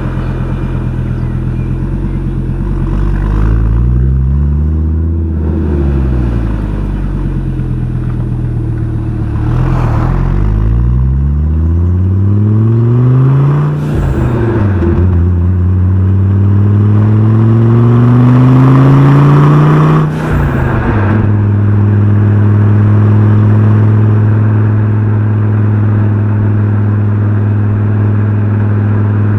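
Fiat Coupe 20V Turbo's inline five-cylinder engine and exhaust under way. The revs rise and fall, then climb twice with a sharp break at each gear change, and settle to a steady note near the end.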